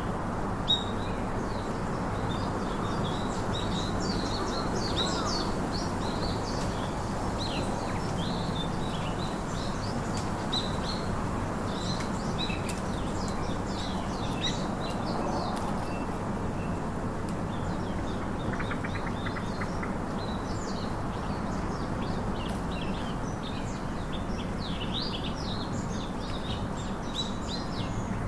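Many small birds chirping and twittering in quick, short calls, overlapping throughout, over a steady low background noise.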